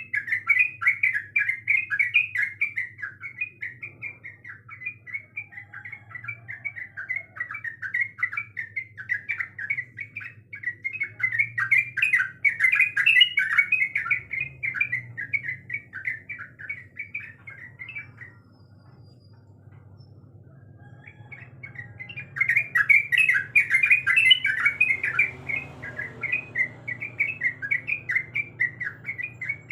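Yellow-vented bulbul (trucuk) singing a long, fast, bubbly chattering song. It breaks off a little past the middle for a few seconds, then starts again loudly.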